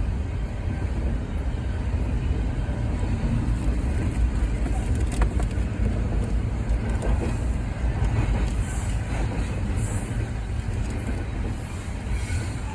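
Train rolling past with a steady low rumble.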